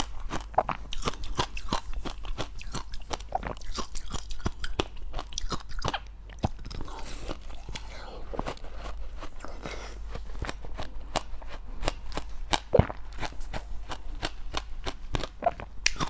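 Close-up chewing of dry, powdery white ice (freezer frost): a dense run of crisp crunches and crackles, easing to softer chewing for a few seconds part-way through.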